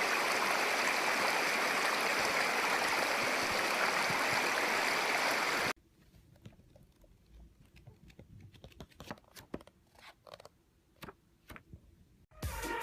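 A steady rushing hiss for about six seconds that cuts off suddenly, followed by near silence with a few faint scattered clicks.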